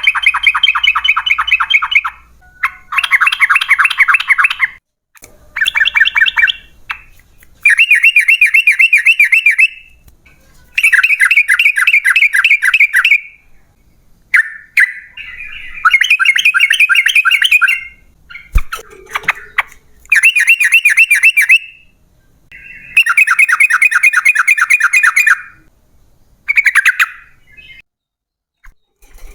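Yellow-vented bulbul (trucukan) singing in long, loud bursts of rapid, bubbling repeated notes. About nine phrases come in turn, each lasting one to three seconds, with short pauses between them.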